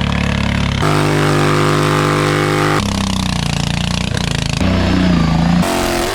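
Engines of modified off-road mud-racing lawn mowers running hard, each at a steady pitch. The sound is cut abruptly to a different engine or speed every second or two.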